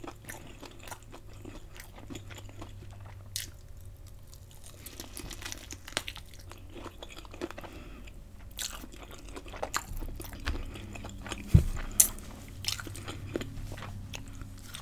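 Close-up chewing and biting of a piece of battered fried lobster tail dipped in Alfredo sauce: wet mouth sounds with scattered crisp clicks, and a few louder crunches in the second half.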